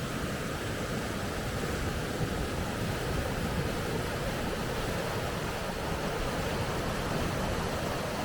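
River rapids rushing: a steady, even wash of water noise.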